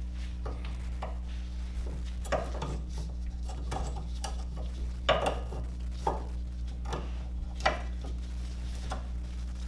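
Irregular metallic clinks and clatters of tools and brake parts being handled during a brake pad replacement, loudest about five seconds in, over a steady low hum.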